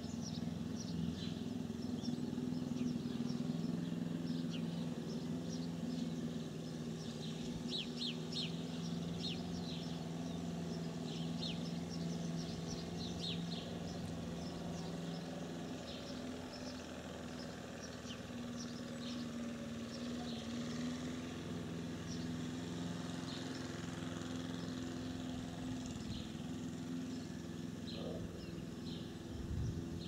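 Small birds chirping over and over above a steady low hum.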